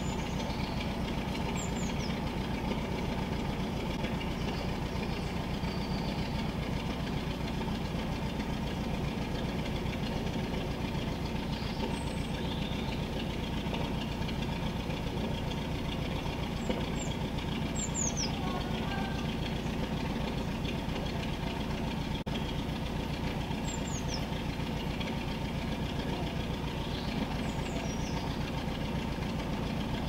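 A steady low buzz with a fast rattle in it, under a handful of short, high, falling chirps from small birds, a few seconds apart.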